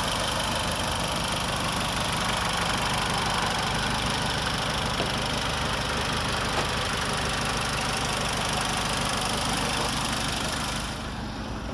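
Peugeot 206 engine idling steadily, heard from above the open engine bay, a little quieter near the end.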